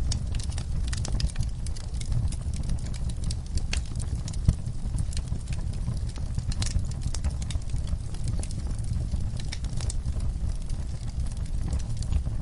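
Wood fire burning in a fireplace: a steady low rumble of flames with frequent small crackles and one louder pop about four and a half seconds in.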